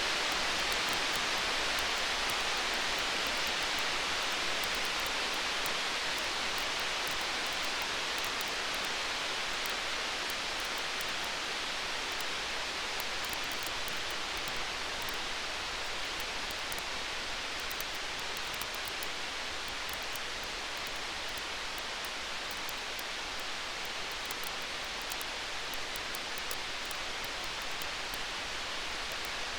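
Steady rain-like hiss with faint, sharp crackles of a wood fire scattered through it, easing slightly in level. No thunder rumble is heard.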